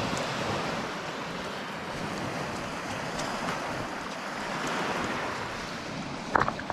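Small waves washing in the shallows at the shore, a steady hiss of water that swells and eases slowly, with wind on the microphone.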